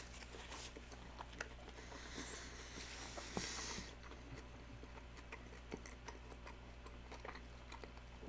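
Faint chewing of a McChicken sandwich, with scattered small mouth clicks and a soft rustle between about two and four seconds in.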